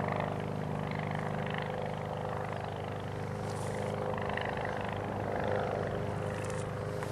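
Homebuilt ultralight aircraft's engine running steadily under power in flight, a droning note that holds its pitch and swells a little near the end.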